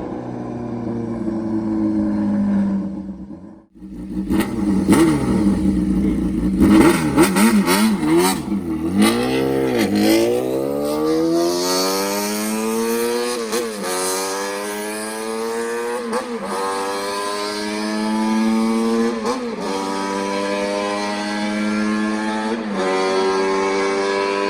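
Honda Jade 250 inline-four engine through a straight-piped 4-2-1 exhaust, revved hard: a few seconds of quick throttle blips, then it climbs to a high, held wail that drops briefly and climbs again several times.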